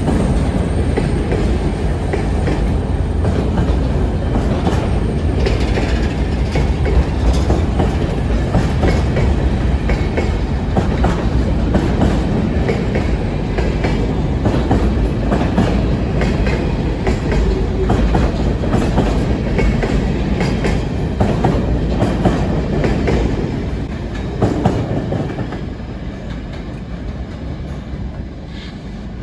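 Freight train rolling past with a steady rumble and the clickety-clack of its wheels over the rail joints; the sound eases off about 25 seconds in.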